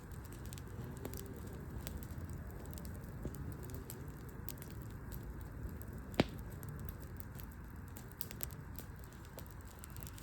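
Wood campfire crackling, with scattered small pops and one louder sharp pop about six seconds in.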